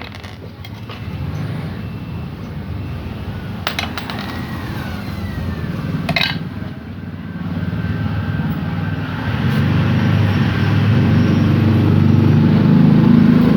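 A motorcycle engine running steadily in the background, getting louder over the last few seconds, with a few sharp metallic clinks from tools and engine parts.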